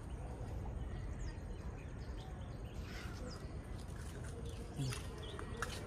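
A few short bird chirps, each falling in pitch, over a steady low outdoor rumble, with one brief low sound near the end.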